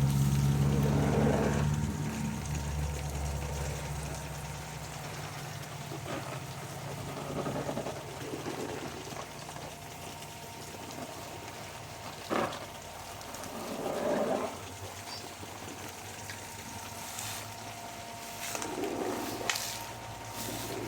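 Garden sprinklers spraying water, the spray swelling in bursts every few seconds as it sweeps past. A steady low motor hum fades out over the first two seconds.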